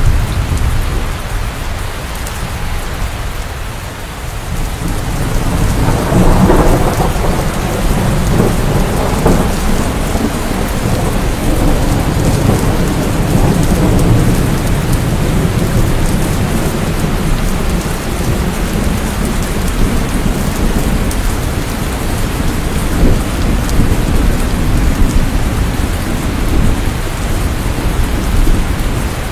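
Steady heavy rain with rolling thunder. A low rumble dies down briefly, then swells again about six seconds in and keeps rolling under the rain.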